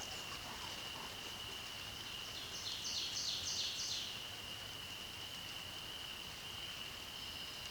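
A songbird sings one short song of about five quick repeated two-note phrases, growing louder to the end, over a steady high-pitched trill that runs unbroken throughout.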